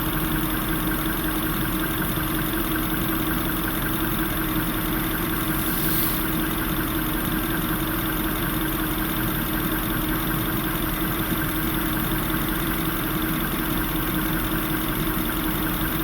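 Jaguar engine idling steadily, with a brief high hiss about six seconds in. The engine is running lean at idle, which the owner puts down to an air leak, probably a bad O-ring seal under the mass airflow sensor.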